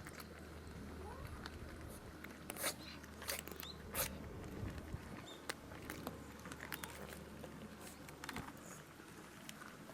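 Cats crunching cat food: irregular crisp crunches and clicks, several at a time, over a steady low hum.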